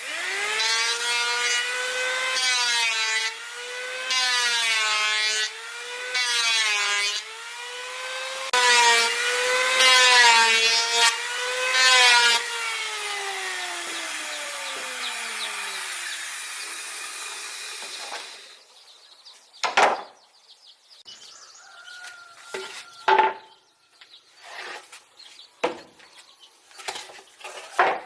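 Electric saw cutting through wood in a run of strokes, its whine wavering and dipping in pitch as the blade loads up. It then winds down with a long falling pitch over several seconds. A few sharp knocks follow near the end.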